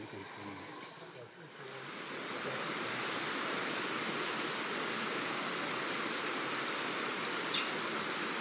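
Steady rushing noise like running water or surf, setting in about two seconds in, with a thin high steady tone over it.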